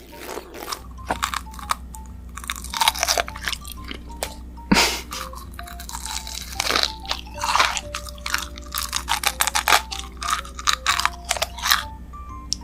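Close-miked crunchy biting and chewing, in many irregular crackling crunches, with light background music underneath.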